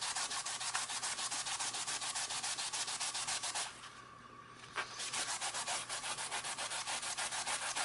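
Wet melamine foam sponge (magic eraser) scrubbing an old, dry-rotted cork fishing rod grip back and forth in quick, even strokes, about five a second. The scrubbing stops for about a second midway, then starts again.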